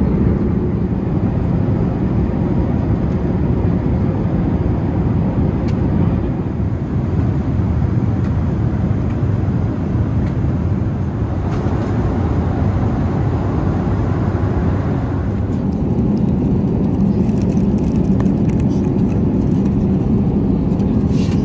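Steady low roar inside the cabin of an Airbus A380 in flight: engine and airflow noise, without breaks. About fifteen seconds in it turns duller, losing some of its upper part.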